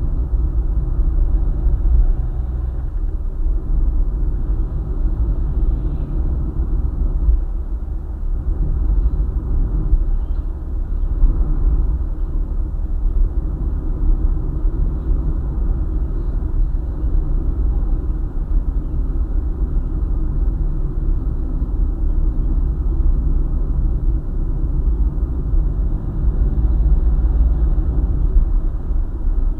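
A car driving steadily along a highway: a continuous low rumble of tyres on the road and engine, with small swells in level.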